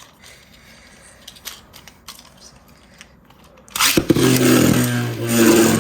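A few faint clicks of plastic parts being handled. Then, nearly four seconds in, Beyblade Burst tops are launched into a plastic stadium: a sudden rush, then a steady whirring hum of the tops spinning.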